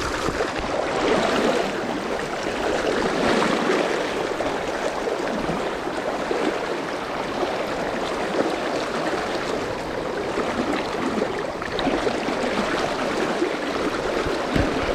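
Steady rushing of a mountain river's current, an even wash of flowing water.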